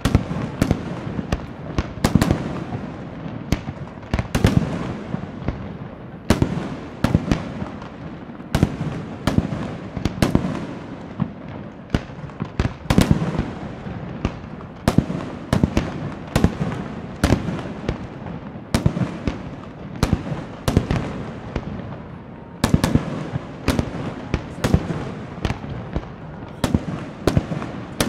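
Aerial fireworks display: a dense, continuous string of sharp shell bursts, several a second, with a rumbling tail after each and no let-up.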